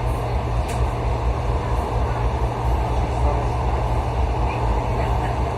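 Suburban electric train running between stations, a steady low rumble and rolling noise heard from inside the carriage, with a faint click about a second in.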